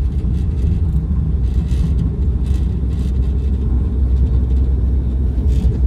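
Steady low rumble of a moving passenger train, heard from inside the carriage, with faint irregular rattling above it.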